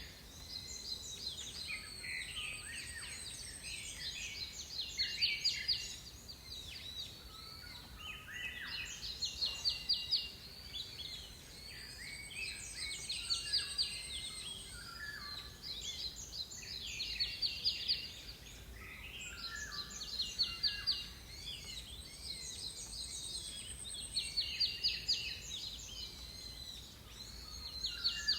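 Several songbirds singing over one another, in bursts of rapid repeated notes every few seconds, with a thin, very high trill about every ten seconds.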